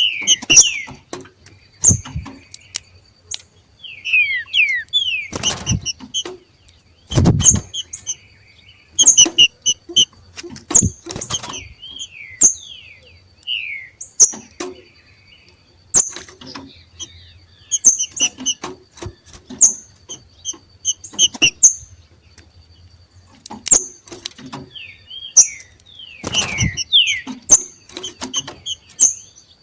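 Two green-winged saltators (trinca-ferro) giving their 'macheado' call: bursts of short, sharp calls and quick falling whistled notes, repeated every second or two. There are a few loud thumps, the strongest about seven seconds in.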